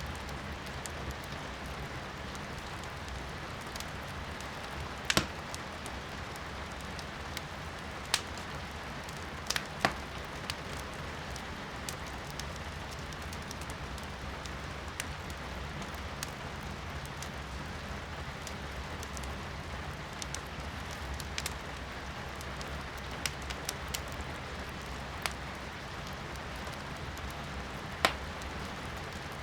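Firewood burning in a fireplace, popping and crackling with sharp snaps every few seconds, over a steady hiss of rain heard from inside the room.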